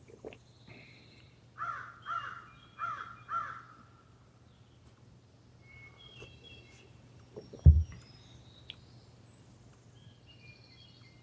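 A bird calls four times in quick succession, about half a second apart, among scattered short higher chirps. A single low thump about eight seconds in is the loudest sound.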